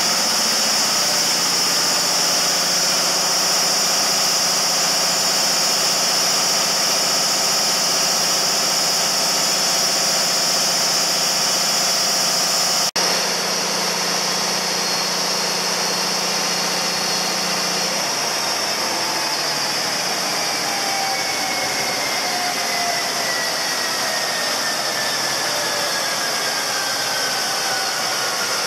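Cat 3516B V-16 diesel generator engine running steadily, then shutting down: about two-thirds of the way through its low running tone stops and a whine falls slowly in pitch as the turbochargers spin down, over a steady high hiss. The sound cuts out for an instant about halfway through.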